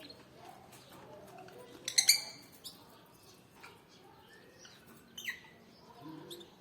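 Canaries chirping in short, sharp calls, loudest in a quick cluster about two seconds in, with another clear chirp a little after five seconds and fainter twitters between.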